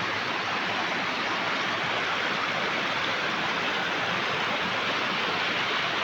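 Waterfall: falling water rushing steadily, with an even, unchanging roar.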